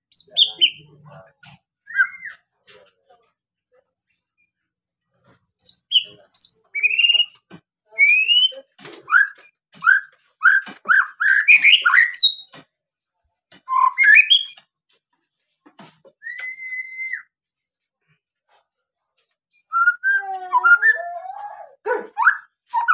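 White-rumped shama (murai batu) singing in bursts of quick whistled and chirping phrases with short pauses between them, including one held whistle near the middle.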